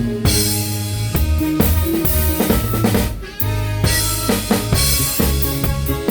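Live band playing a song, with the drum kit to the fore: bass drum, snare and rimshots over bass and other pitched instruments. The music drops briefly a little over three seconds in.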